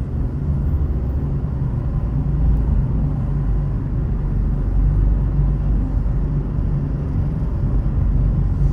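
Car being driven at a steady pace: a steady low rumble of road and engine noise, with no distinct events.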